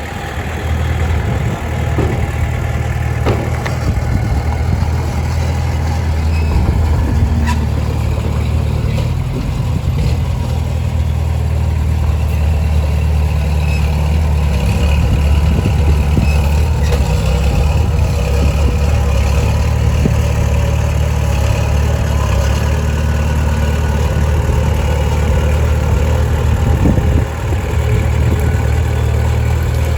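Diesel engine of heavy earthmoving machinery running steadily under varying load, with a deep even drone and a short drop in level near the end.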